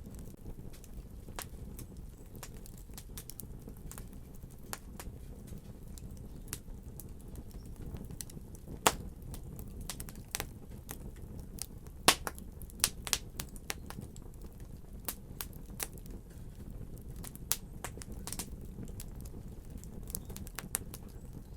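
Fire crackling: irregular sharp pops and snaps over a steady low rushing of the flames, with the loudest pops about nine and twelve seconds in.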